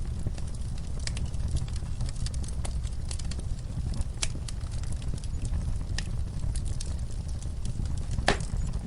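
Fireplace fire crackling: a steady low rumble of the flames with scattered sharp pops, the loudest near the end.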